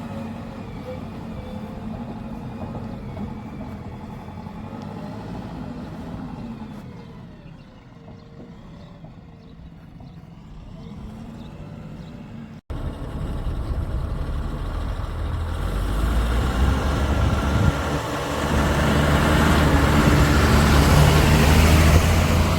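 Diesel engine of heavy machinery running steadily. There is an abrupt cut about halfway through, after which the engine is much louder and grows louder still, its deep rumble strongest just before the end.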